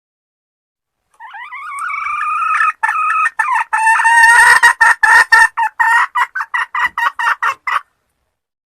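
Junglefowl hen calling, the call a hen uses to draw a cock: a rising cackle about a second in that breaks into a fast run of short clucking notes, about three to four a second, stopping abruptly near the end.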